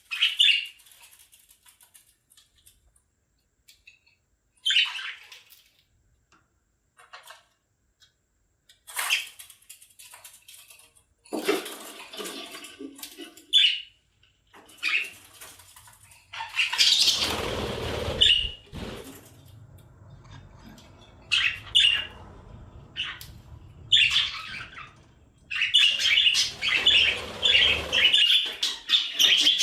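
Budgerigars chirping and squawking in short, scattered calls, with a louder burst of noise about halfway through and a denser run of chattering near the end.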